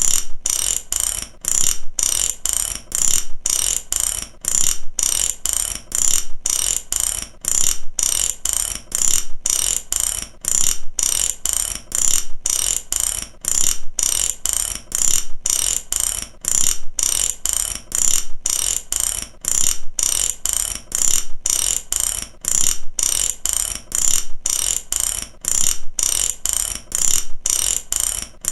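Mechanical ratchet clicking in fast, even runs, with short regular breaks about once a second, as when a ratchet is worked back and forth.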